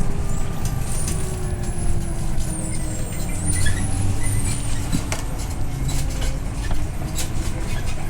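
Scania OmniLink I city bus on the move, heard from inside: a steady engine and road rumble with a whine that slides down in pitch and climbs back up near the end.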